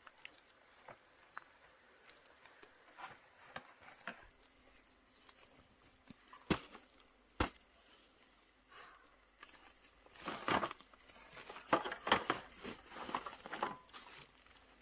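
A steady high-pitched whine, with two sharp knocks a little under a second apart about halfway through and a run of scraping, rustling handling noises in the last few seconds.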